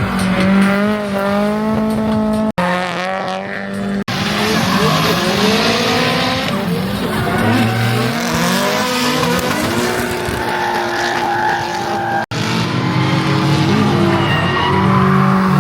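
Drift cars driven hard, engines revving up and down with tyres screeching, in short clips cut together with sudden breaks three times.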